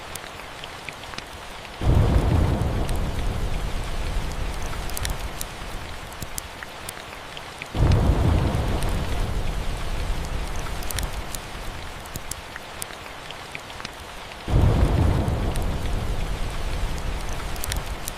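Steady rain falling, with three rolls of thunder about six seconds apart, each breaking in suddenly and rumbling away over several seconds. Scattered sharp crackles run over the rain.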